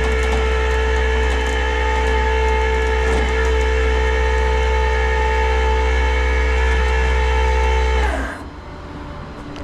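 Tow truck's hydraulic winch and pump running steadily with a constant whine over a low engine hum while pulling a car up the bed; it shuts off about eight seconds in.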